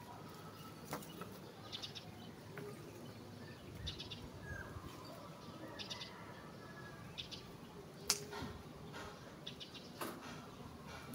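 Faint bird calls: short runs of four or five quick high chirps, repeated every couple of seconds. A few sharp clicks sound close by.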